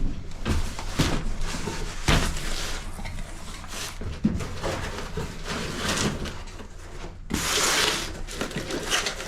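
Irregular clanks and knocks of tools and mower parts being handled, with a short hissing or rustling burst about seven seconds in.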